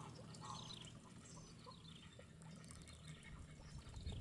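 Faint bird calls: a few short, high chirps and quick falling runs of twittering notes over a low background hum.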